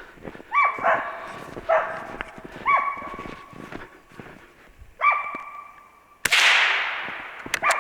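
Hunting dog barking at a treed squirrel with four short barks, then one loud gunshot about six seconds in that hits the squirrel.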